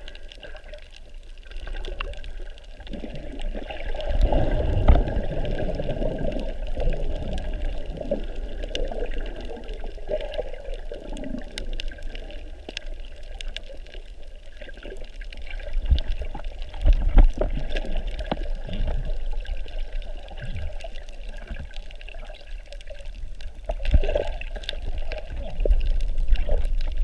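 Water sloshing and gurgling around a snorkeler's camera, swelling and easing in waves, with many faint scattered clicks.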